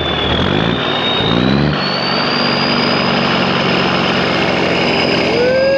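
Diesel engine of a Volvo/White semi truck pulling away. Its revs climb over the first couple of seconds and then settle into a steady run, with a thin high whine rising slowly above it. The crew takes the engine for a Cummins.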